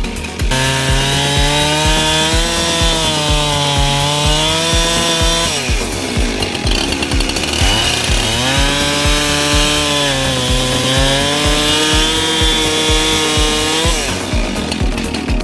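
Husqvarna 372XP chainsaw cutting through logs in two long cuts, dropping back and revving up again between them, over electronic music with a steady beat.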